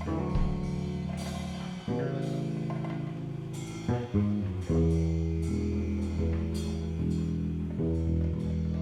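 Instrumental band jam: guitar playing chords over sustained bass notes, with a drum kit and cymbals. The harmony changes every second or two.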